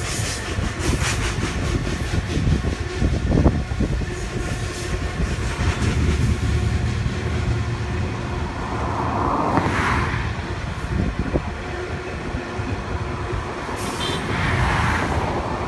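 Loaded freight wagons of a heavy-haul ore train rolling steadily past: a continuous low rumble of steel wheels on rail, with clicking as they pass over the rail joints.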